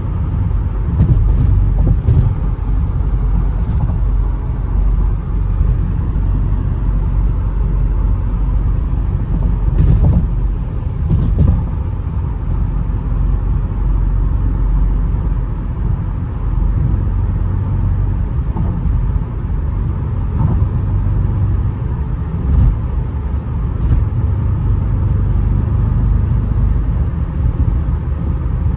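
Audi RS7 Performance's twin-turbo V8 and tyres at a steady cruise: a constant low drone of engine, exhaust and road noise, with a few short knocks.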